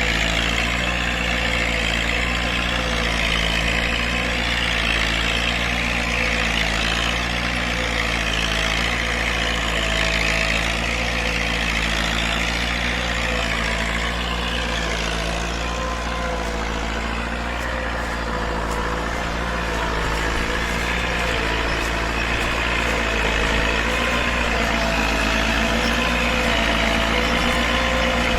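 Diesel farm tractor engine running steadily while pulling a four-disc harrow that chops sugarcane leaves, its loudness dipping a little midway and rising again.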